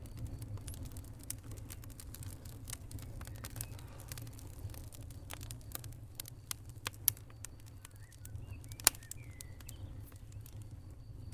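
Wood fire crackling: irregular sharp pops and snaps over a steady low rumble of the flames, with two louder pops about seven and nine seconds in.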